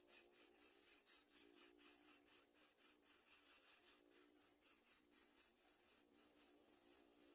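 Rapid high-pitched chirping in an even rhythm of about four pulses a second, over a faint steady low hum.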